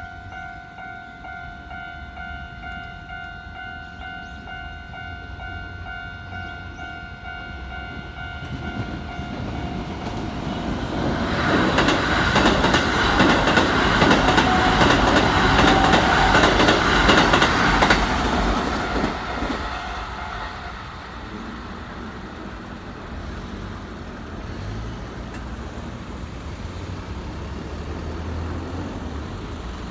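Japanese level-crossing alarm ringing, then a Keikyu 1000-series eight-car electric train runs over the crossing, its wheels clattering rapidly over the rail joints. The train is loudest for about seven seconds in the middle, and the alarm tone fades out under it.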